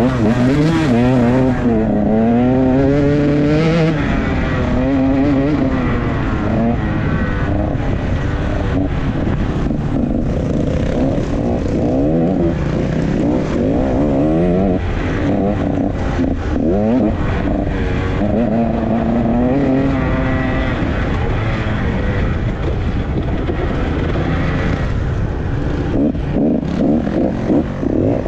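Off-road enduro motorcycle engine heard on board, revving up and falling back over and over as the throttle opens and closes over rough track, with frequent short knocks from the ground.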